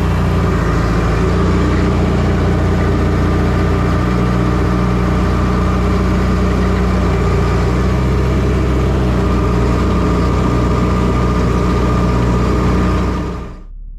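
A motor engine running steadily at an even speed, loud and unchanging, cutting off abruptly near the end.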